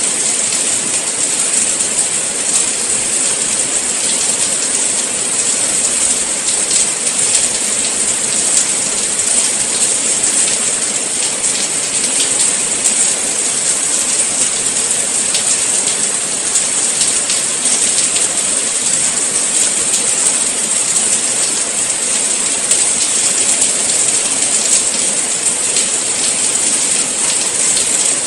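Steady rain, a dense even hiss with fine patters of drops.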